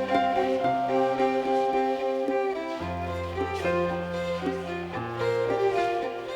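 Live contra dance band playing a dance tune: a quick fiddle-led melody over long held bass notes that change every second or two.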